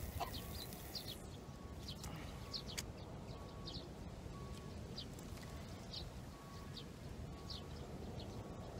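Small birds chirping: short high calls repeating about once a second, over a steady low rumble of outdoor background noise.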